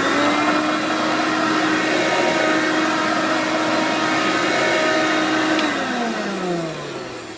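Hoover PowerMax upright vacuum cleaner running: the motor comes up to speed at the start and holds a steady whine over the rush of air, then is switched off about five and a half seconds in and winds down with falling pitch.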